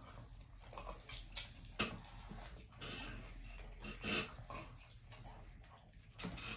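Close-up chewing and lip-smacking while eating saucy barbecue pork ribs: quiet, irregular mouth noises with a couple of sharper smacks, about two seconds in and again about four seconds in.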